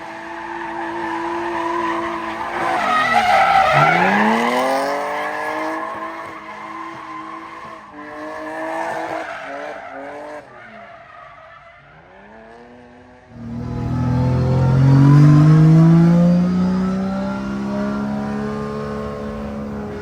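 Drift car engine revving hard, its pitch dipping and climbing as the throttle is worked, with tyres squealing. The engine falls quieter for a few seconds past the middle, then comes back loud with rising revs.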